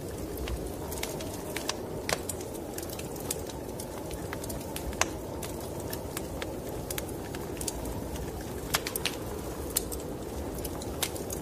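Wood fire in a fireplace crackling, with irregular sharp pops and snaps, a few louder ones scattered through, over a steady low rushing noise.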